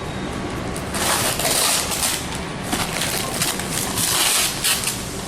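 Packing material rustling and crinkling in irregular loud bursts as someone digs through the exhaust's box for a part, starting about a second in.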